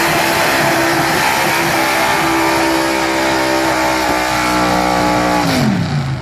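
Pulling truck's engine held at full throttle under load, with a loud steady note over heavy exhaust noise. Near the end the revs fall away sharply as the throttle is let off.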